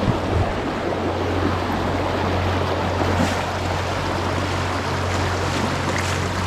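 Steady rush of flowing water, with a constant low hum underneath.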